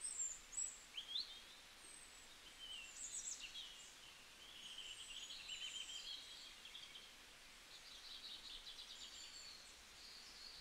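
Faint birdsong: scattered short chirps and brief trills from small birds over a light hiss.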